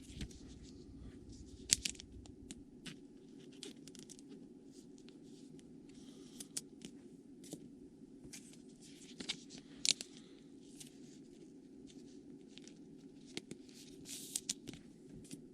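Trading cards and foil pack wrappers being handled: scattered short crinkles, rustles and light clicks, two of them sharper, about two seconds in and near ten seconds, over a steady low hum.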